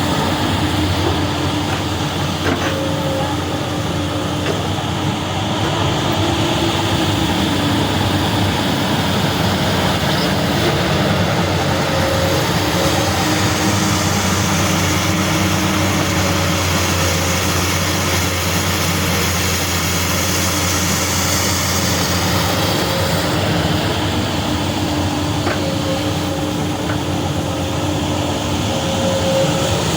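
Komatsu PC200 hydraulic excavator's diesel engine running steadily while it digs, with a couple of brief clicks.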